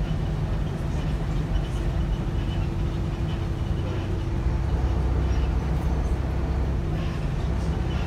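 Inside a Volvo B7RLE single-deck bus with its diesel engine running: a steady low drone that swells near the middle, with light clicks and rattles from the worn bus.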